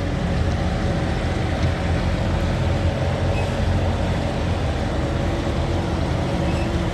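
Vehicle engines running steadily: a low, even hum with a few faint steady tones above it.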